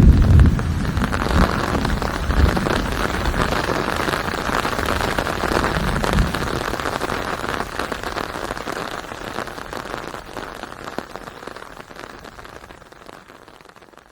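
Steady rain falling, with a low rumble at the start and another about six seconds in. The rain fades out gradually over the last several seconds.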